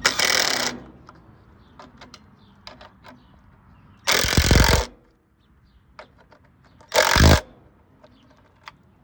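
Cordless power driver with an 8mm socket spinning bolts down in three short bursts, at the start, about four seconds in and about seven seconds in, with light clicks of the socket and bolts between.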